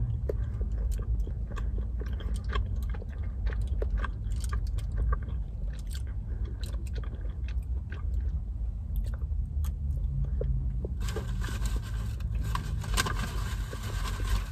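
Chewing a soft pretzel, with many short wet mouth clicks over a steady low car-interior rumble. A hiss comes in about eleven seconds in.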